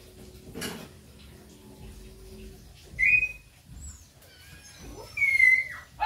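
Bird calls: a short whistled note about three seconds in, faint high chirps, then a longer, louder whistled note near the end that holds and drops away. A soft knock sounds near the start.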